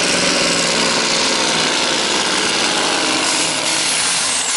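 Scania V8 pulling truck's engine running hard at full load as it drags the weight sled, a loud continuous noise with its lower engine note fading about two seconds in.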